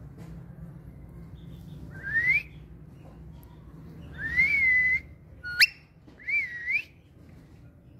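Pet parrot whistling four separate notes: a short rising whistle, a longer one that rises and then holds, a sharp upward one, and a wavering one.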